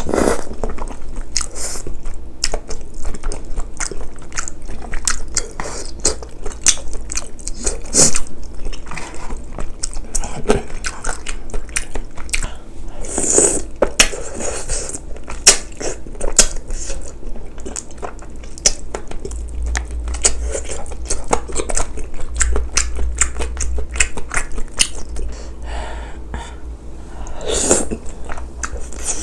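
Close-miked eating: continuous chewing and biting of spicy braised chicken and glass noodles, with wet mouth clicks and smacks coming irregularly.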